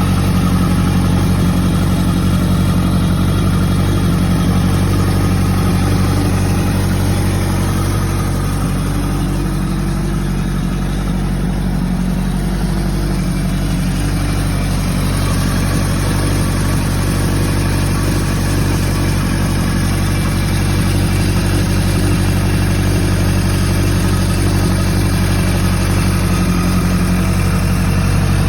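Kawasaki KZ900's air-cooled inline-four engine idling steadily.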